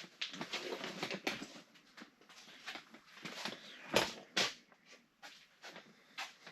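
Scattered knocks, taps and rustles of work with building materials and tools, with two sharp knocks close together about four seconds in.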